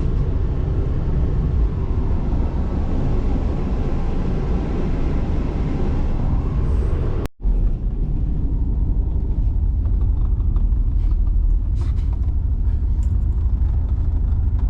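Inside a sleeper train carriage: the steady low rumble of the train running on the rails. It breaks off for an instant about halfway through, and a few light knocks come in the second half.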